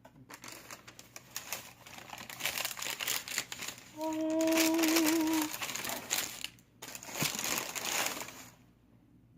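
Sneaker-box wrapping tissue paper being pulled open and crinkled in irregular spurts, stopping suddenly about 8.5 seconds in. A short hummed note sounds over the rustling about four seconds in.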